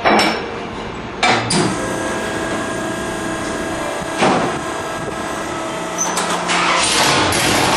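A few sharp metal knocks and clanks. Near the end a loud, steady engine sound starts, which fits the uncorked small-block V8 being fired up.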